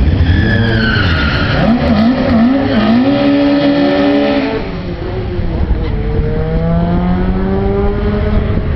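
Peugeot 205 Rallye's touring-car-spec engine revving hard. The revs bounce up and down several times, then hold high, drop briefly about four and a half seconds in, and climb steadily again.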